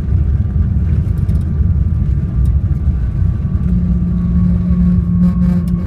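Boeing 777-300ER jet on its landing, a loud steady low rumble with a thin high engine tone over it; about two-thirds of the way in, a steady deeper hum joins.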